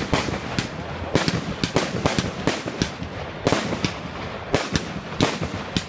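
Aerial fireworks going off: an irregular run of sharp bangs and cracks, several a second.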